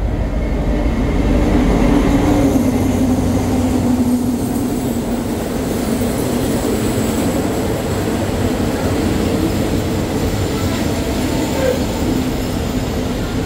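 Diesel-hauled passenger train running in alongside the platform. The locomotive's engine hum is loudest in the first few seconds, then the carriages roll past with a steady rumble of wheels on rail.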